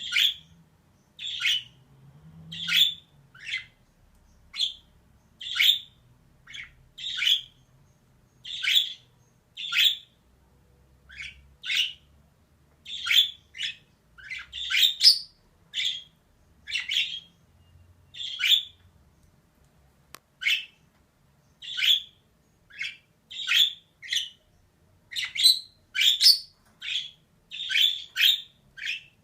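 Female budgerigar calling in short, harsh chirps, roughly one a second, some coming in quick pairs.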